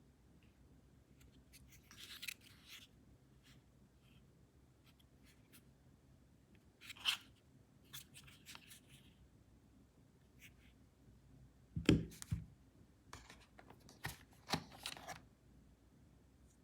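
Unboxing handling sounds: packaging scraping and rustling in short bursts, with a soft thump about twelve seconds in, the loudest event.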